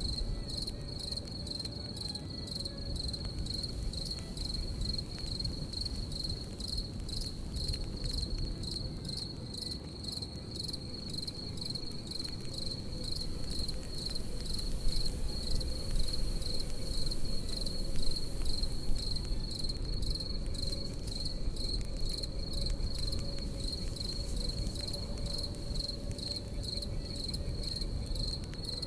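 Crickets chirping in a steady, even pulse over the low rush of a campfire, with a few sharper crackles and pops from the fire in the middle.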